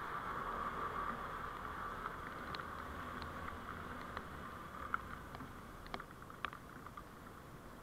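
Steady vehicle road noise picked up by a dashcam, slowly fading, with scattered small clicks and ticks in the second half.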